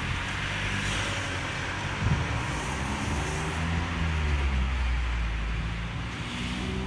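Mazda ND Roadster's 1.5-litre four-cylinder engine heard through a Suruga Speed PFS Loop Sound aftermarket muffler while driving with the top down, a low steady exhaust note whose pitch shifts a little with throttle, over wind and road noise. A single brief knock about two seconds in.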